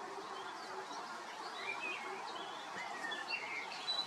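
Wild songbirds singing: short chirps and rising and falling whistles, over a steady outdoor hiss.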